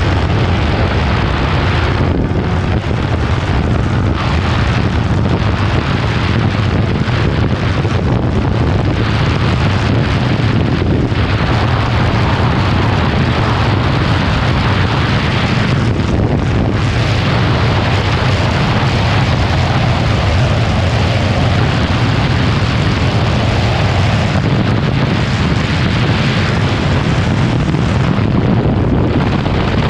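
Yamaha 155 cc single-cylinder motorcycle running flat out at top speed, buried under loud, steady wind rush on the microphone.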